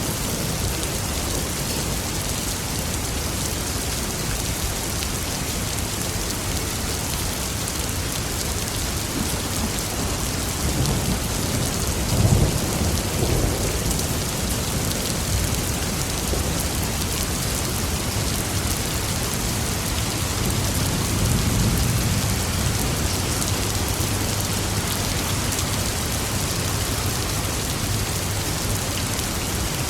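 Steady heavy rain falling, with a sharp thunderclap about twelve seconds in and a longer, softer rumble of thunder around twenty-one seconds in.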